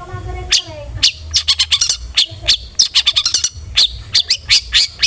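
Long-tailed shrike (cendet) calling in a fast, irregular run of short, sharp, harsh chirps, many per second, over a low steady hum.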